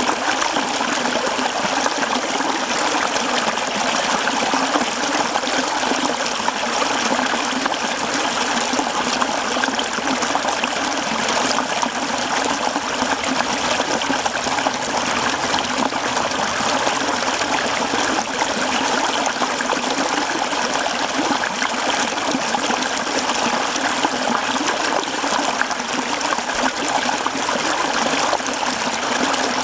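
Mountain stream flowing over rocks: a steady rush and babble of water.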